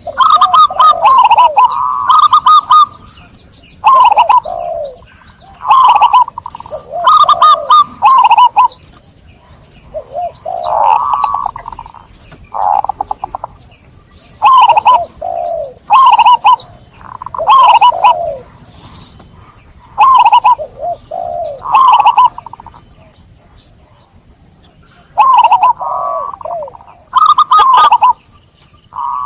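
Zebra dove (perkutut) cooing: short, loud, whistled coo phrases repeated every couple of seconds, with a pause of a few seconds near the end before the calls resume.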